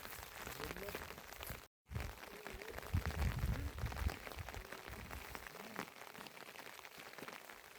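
Rain pattering steadily, a dense spread of small drop ticks over a soft hiss, with faint voices in the background; the sound cuts out for a moment a little before two seconds in.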